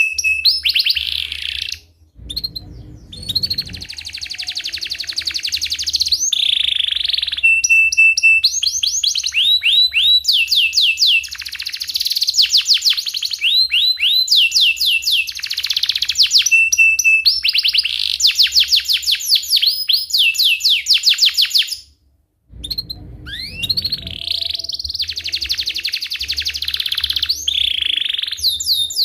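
Canary singing loudly and without stopping. Fast rolling trills of rapidly repeated falling notes alternate with chirps and short held whistles, with two brief breaks, about two seconds in and again near twenty-two seconds.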